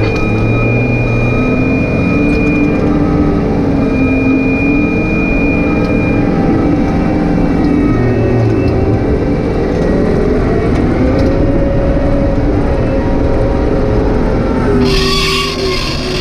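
Excavator engine running under working load, its pitch rising and falling as the hydraulics are worked. A short hiss comes near the end.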